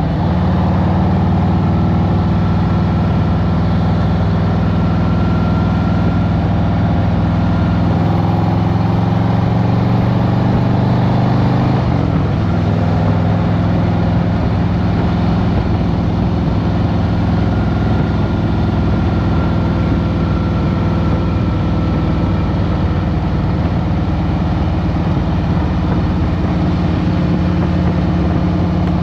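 Harley-Davidson Road Glide Special's Milwaukee-Eight V-twin running steadily, its note shifting about twelve seconds in.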